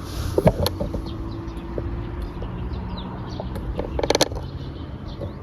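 Small birds chirping, short scattered calls over a low steady rumble, with a quick run of clicks about four seconds in.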